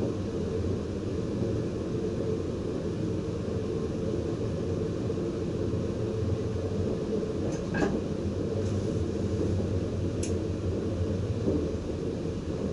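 Steady running rumble of a VIRM double-decker electric train heard inside the driver's cab, with two brief sharp clicks about 8 and 10 seconds in.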